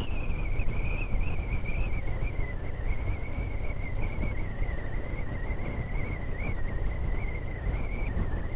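KTM 390 Duke motorcycle riding along, its engine running under a steady rush of wind, with a high, steady whine that wavers slightly in pitch.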